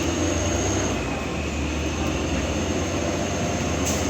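Heavy loaded truck's diesel engine running steadily under hard load on a steep climb, a low hum under a noisy haze. A thin high whine sounds over it in the first second.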